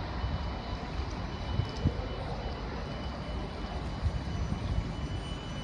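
Koleje Dolnośląskie regional train rolling slowly along the platform as it pulls into the station: a steady low rumble of wheels on rails, with a thin, steady high-pitched whine running through it.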